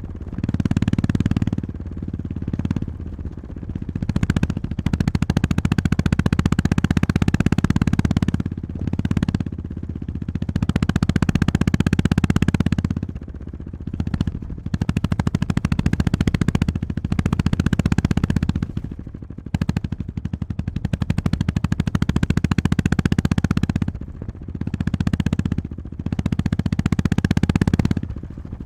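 Honda GB350S single-cylinder engine and exhaust pulsing under load, the throttle opened and closed again and again so the engine note keeps rising and falling.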